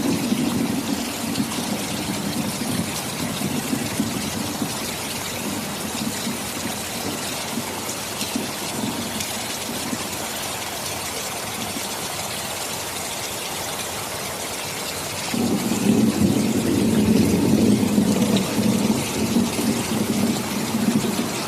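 Steady heavy rain, with a low rolling rumble of thunder that dies away in the first couple of seconds and comes back louder about three quarters of the way through, lasting around six seconds.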